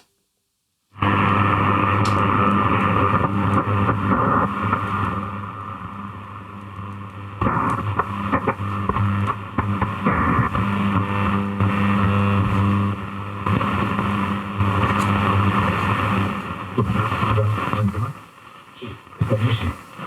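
Grundig Satellit 2100 shortwave receiver playing an off-air signal with no speech: a steady buzzing tone with hiss, cutting in after a second of silence. The sound changes abruptly about seven seconds in and dips near the end.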